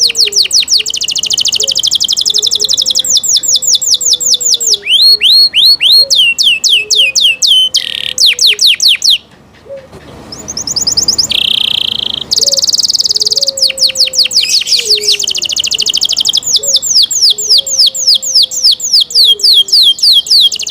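Canary singing: rapid trills of quickly repeated sweeping notes, one phrase running into the next, with a short pause about nine seconds in.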